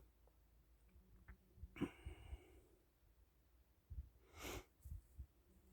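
Near silence, broken by a couple of faint short breaths or sniffs and a few soft low thumps.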